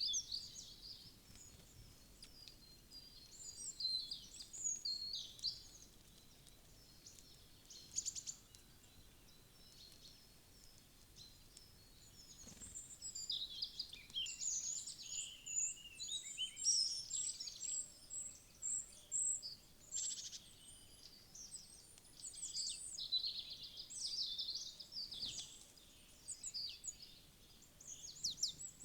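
Small wild songbirds chirping at a feeder: many short, high calls in busy bouts, with a quieter stretch in between. A few light clicks are heard among the calls.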